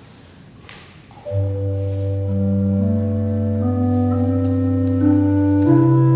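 Organ music begins about a second in: slow, held chords over a sustained bass note, the harmony shifting gradually and the bass stepping up near the end.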